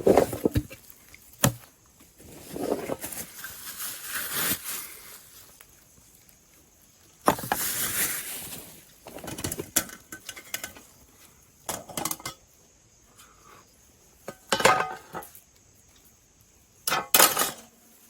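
Camping gear being handled and unpacked: irregular clinks and knocks of small pots and utensils, with bursts of rustling.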